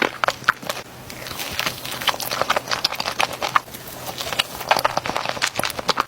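Close-miked eating sounds: chewing Nutella crepe rolls, with many irregular wet mouth clicks and smacks.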